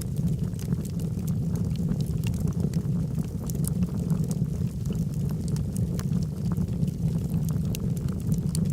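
Logs burning in a fireplace: a steady low rumble with frequent small, sharp crackles and pops.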